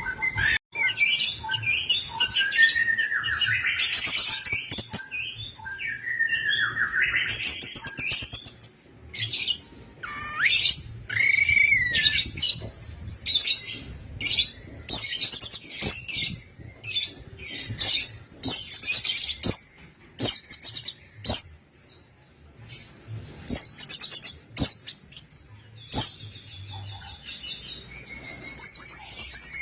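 Orange-headed thrush singing: a long run of short, fast, varied phrases of chattering and whistled notes, separated by brief pauses.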